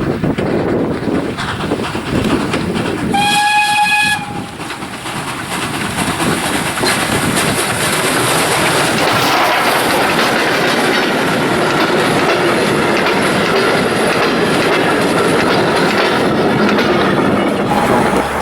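Steam-hauled Ol49 heritage train running on the rails, wheels clacking over rail joints, with one short steady whistle blast from the locomotive about three seconds in.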